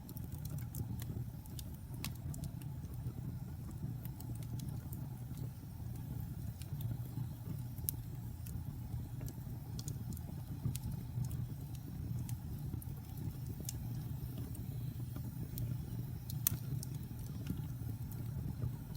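Wood fire burning in a fireplace: a steady low roar of the flames with scattered sharp crackles and pops, a couple of louder pops about eight seconds in and near the end.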